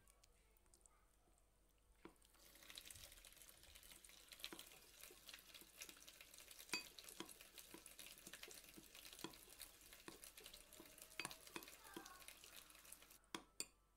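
Faint kitchen stirring: a utensil clicking irregularly against a bowl over a soft hiss, starting about two seconds in and stopping shortly before the end.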